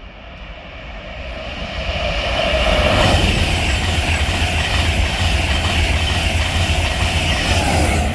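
A Class 91 electric locomotive with its InterCity 225 train passing through the station. The rush builds over about three seconds, stays loud and steady, then begins to fade near the end.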